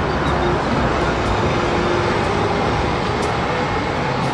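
Red double-decker city bus driving along a street: steady engine and road noise.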